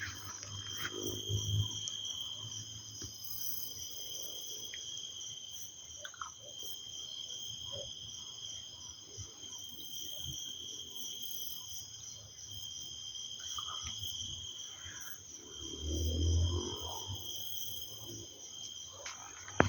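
Insects chirring steadily in two unbroken high tones. A low rumble of distant thunder swells up briefly near the end, and a fainter one comes shortly after the start.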